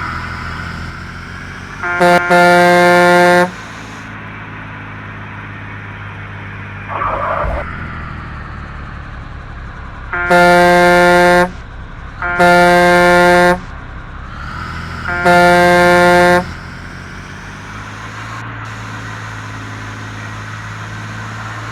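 Truck horn sounded four times in blasts of about a second each, the first on its own and the last three in quick succession, over steady engine and road noise.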